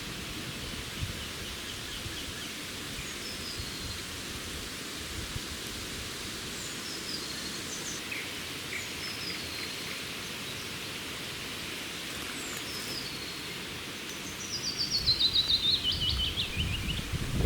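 Forest ambience: a steady background hiss with songbirds singing short, repeated, falling phrases. Near the end a louder rustling noise comes in.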